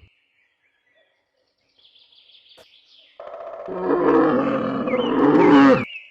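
Yak grunting: one long, low call of about three seconds, starting a little after the middle. Birds chirp faintly in the background.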